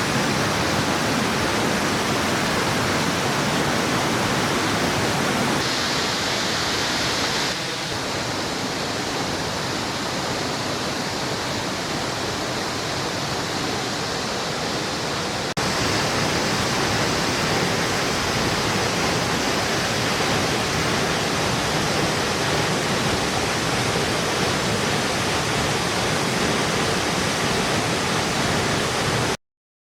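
Steady rushing of falling water, changing slightly in tone at a few cuts and stopping abruptly near the end.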